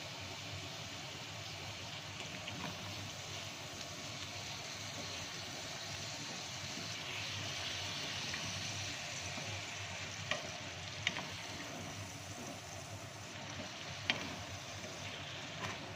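Halloumi cubes and chopped tomatoes sizzling steadily in oil in a frying pan while being stirred with a wooden spatula, with a few sharp knocks of the spatula against the pan around ten, eleven and fourteen seconds in.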